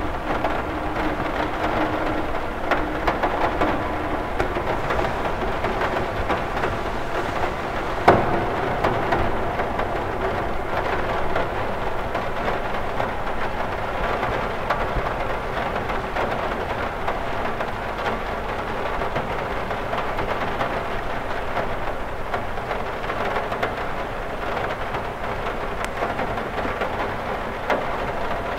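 Steady rain pattering on a window pane, a dense even hiss of many small drop ticks. One sharp, louder tap stands out about a third of the way in.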